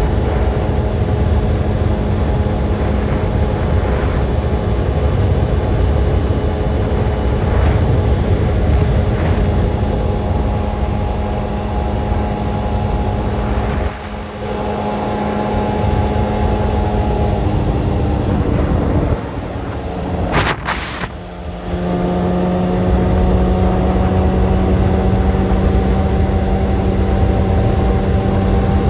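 Motorcycle engine running at a steady cruising speed, with heavy wind rumble on the microphone. About two-thirds of the way through, the engine eases off and drops in pitch, a short sharp high sound cuts in, and then it pulls steadily again.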